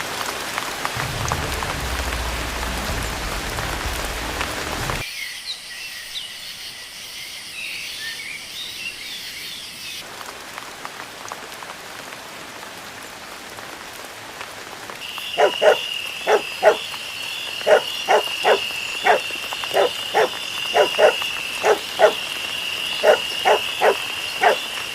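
Storm sound effects: steady rain with a low rumble for the first few seconds, then a quieter wet ambience. In the second half a steady high chirring runs under a regular series of short croaking animal calls, about two a second.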